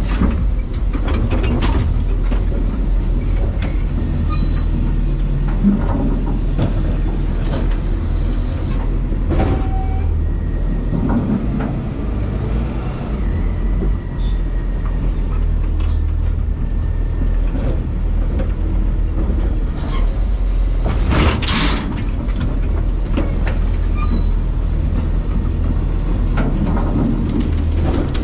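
Side-loading garbage truck working, heard from its hopper: a steady low engine and hydraulic rumble with frequent clanks and rattles of metal and trash. A brief loud rush of noise comes about three-quarters of the way through.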